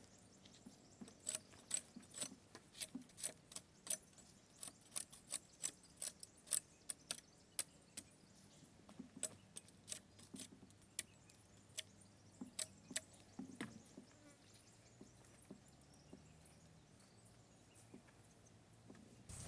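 A series of irregular sharp clicks, about two to three a second, thinning out after about fourteen seconds.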